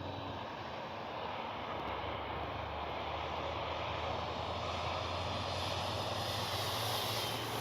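Electric RC Corsair's brushless motor and big three-blade propeller droning steadily in flight, growing a little louder toward the end, when a faint whine comes in.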